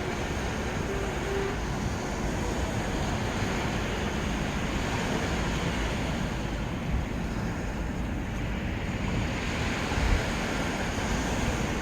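Sea surf washing on a beach, a steady rush of breaking waves that swells a couple of times, with some wind on the microphone.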